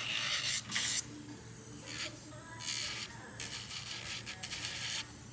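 Nail file rasping against fingernails in a series of irregular scratchy strokes, some short and some drawn out for nearly a second.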